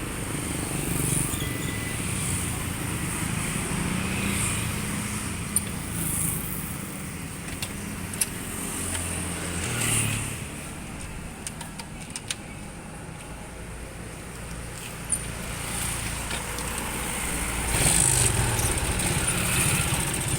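Motorcycle engine running, with road traffic noise. It varies in pitch, eases off in the middle and gets louder near the end.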